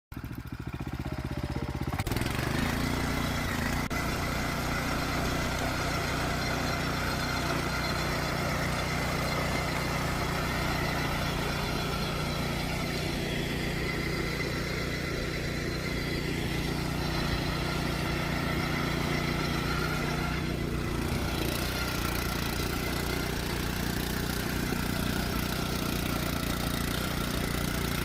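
Bumyang VP-225B cultivator's single-cylinder four-stroke petrol engine running steadily.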